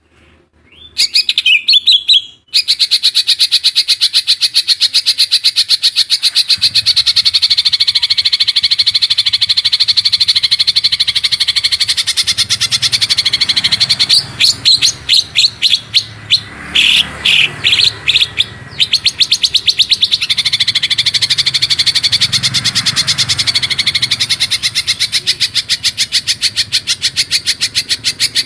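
Songbird singing a fast, continuous trill used as a song-tutor recording for training green leafbirds, with a short break early on and a run of louder, separate chirps around the middle.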